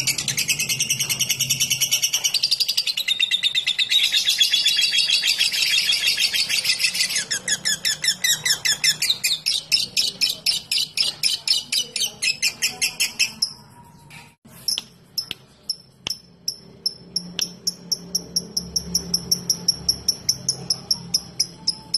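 Lovebird singing: a long, rapid high chattering trill (the 'ngekek') for about seven seconds, running on into a string of fast, evenly spaced ticking notes that stop about thirteen seconds in. After a short pause, a steady series of short high ticks follows, about three a second.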